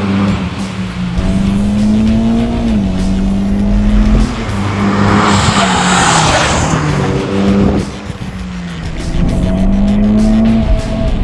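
Mitsubishi Lancer Evo X's turbocharged four-cylinder running through an XForce 3-inch performance exhaust, driven hard: the engine note climbs and then drops back several times. A loud rush of noise rises and fades around the middle.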